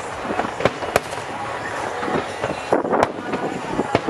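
Fireworks bursting overhead: a quick, irregular run of bangs and crackles, with sharper reports standing out about a second in and again near three seconds.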